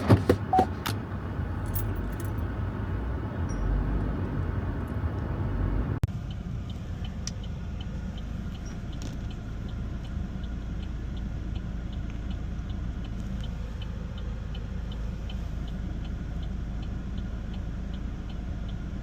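Steady rumble of a car heard from inside the cabin while driving, with a few sharp clicks and rattles in the first second. From about six seconds in, a turn-signal indicator ticks evenly over the rumble.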